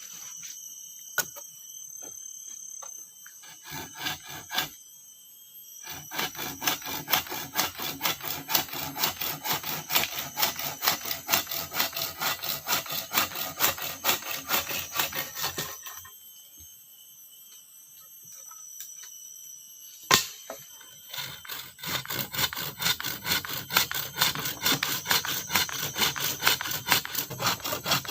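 Hand saw cutting wood in quick, even back-and-forth strokes, about two to three a second, in two long spells with a pause and a single knock between them. Insects buzz steadily in the background.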